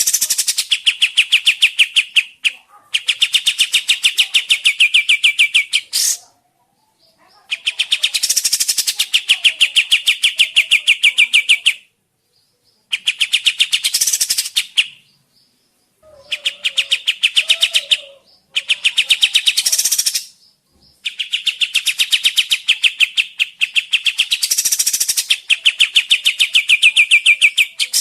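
Kapas tembak bulbul song used as a lure call. It comes in loud bouts of a few seconds each of very fast, rattling repeated notes, about seven bouts broken by short pauses.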